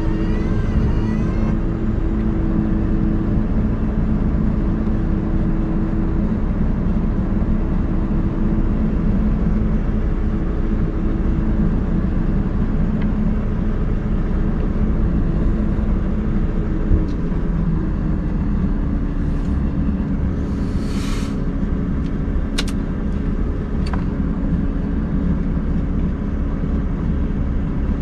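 Scania R580 truck's V8 diesel running steadily, its pitch dropping a step about two-thirds of the way through, with a single knock at that point. A few sharp clicks follow a little later.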